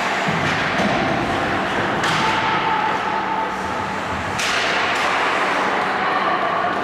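Ice hockey play on a rink: steady rink noise from skates and sticks on the ice, with a sharp crack about four and a half seconds in and a softer one near two seconds.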